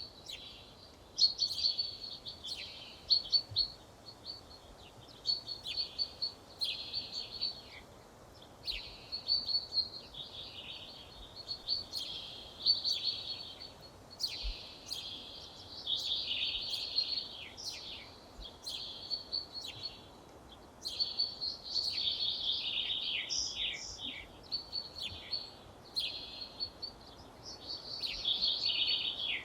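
A songbird singing, repeating short phrases of quick, sharp, high notes every two to three seconds with brief pauses between them, over a faint background hiss.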